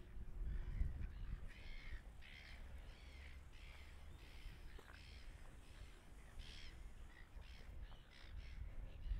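Birds calling in a long run of short calls, about two a second, over a low background rumble.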